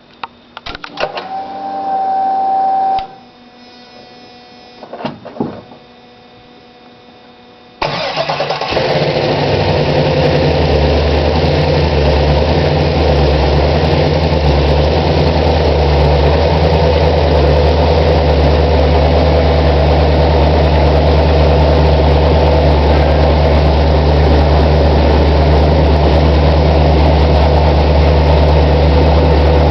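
LS V8 engine in a 1968 Chevy C-10 starting for the first time after the swap: a short steady whine and a few clicks, then about eight seconds in it fires abruptly and settles into a steady idle.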